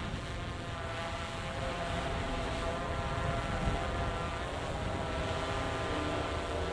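A steady, distant engine drone with several pitched tones, over wind noise.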